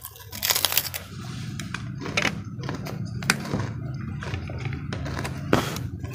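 Close-up eating sounds: crunching and chewing of a crisp cracker and fried noodles, with wet mouth smacks and many short crackling clicks, and one sharper crack near the end.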